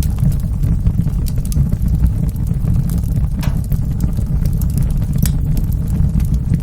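Wood fire burning in a fireplace: a steady low rumble of the flames, with scattered crackles and a few sharper pops.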